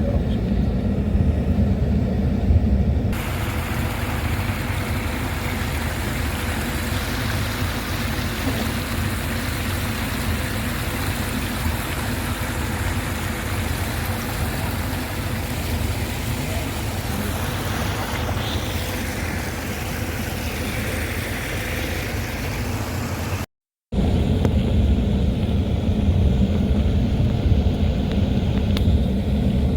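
A car driving, with a steady low rumble of engine and road noise. For most of the stretch a broad hiss lies over it, then drops away after a short break in the sound.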